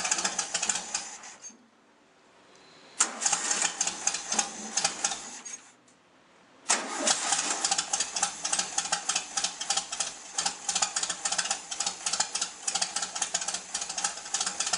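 1974 VW Beetle's air-cooled flat-four engine being started cold. It turns over in two short bursts with pauses between, then about seven seconds in it catches and keeps running with a rapid, even beat. The hesitant start comes from the freezing weather, a month without running, and a faulty accelerator pump on one carburetor that makes it stall before catching.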